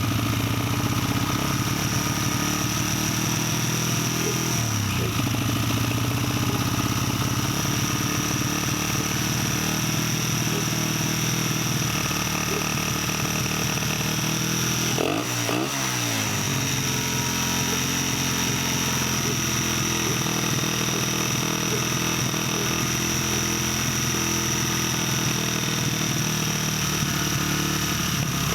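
1989 Honda XR100's small single-cylinder four-stroke engine idling steadily, running on a freshly fitted carburetor, with a brief rev about halfway through.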